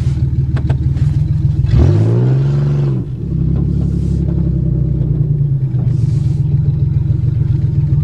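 Car engine running while driving, revving up briefly about two seconds in and dropping back about a second later, then running steadily; running perfect.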